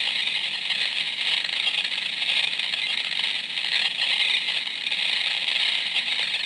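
"Bat Swarm" sound effect played from a Halloween sound-effect box's small built-in speaker: a dense, steady, hissing din with no clear pitch, squeezed into a thin high band.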